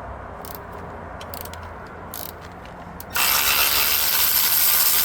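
Ratchet wrench loosening the bolts of an LQ9 engine's oil pickup tube: a few scattered clicks, then from about three seconds in a sudden, loud, steady run of ratcheting.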